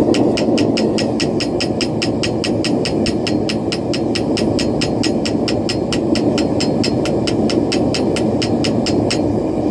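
Rapid, even hammer blows on steel at the anvil, about five or six a second with a metallic ring, stopping about a second before the end. Under them runs the steady roar of a propane forge.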